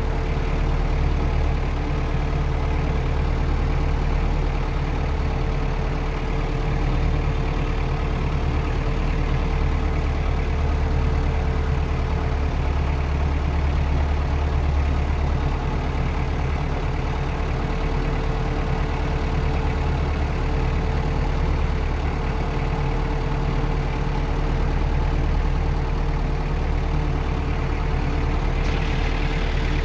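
Farm tractor's engine running steadily as the tractor drives along, a constant low rumble with a steady droning tone.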